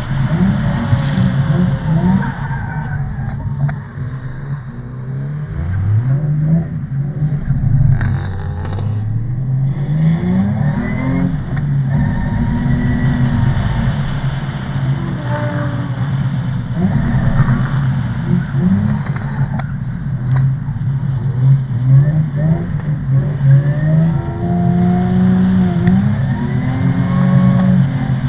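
Car engine under hard driving, revving up and dropping back over and over as the driver works the throttle and gears through a drift run.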